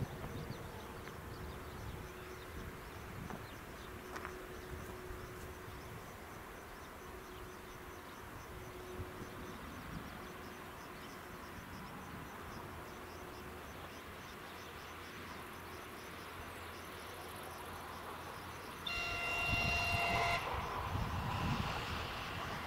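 A train horn sounds once near the end, a single held note about a second and a half long, and the low rumble of the approaching passenger train grows after it. Before that only a faint rapid high ticking is heard.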